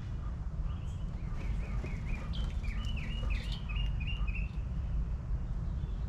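A songbird singing a quick run of repeated chirping notes, about five a second, lasting about four seconds, over a steady low rumble.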